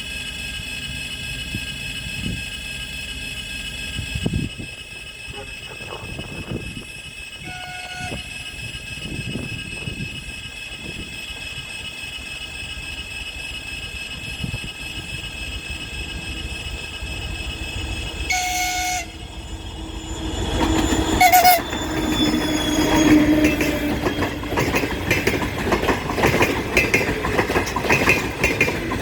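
TEP70 diesel passenger locomotive sounding short horn toots, three times: a brief one, a longer one, then a last short one. The locomotive's V16 diesel and the passenger cars' wheels then come up loud, clattering over the rail joints as the train passes.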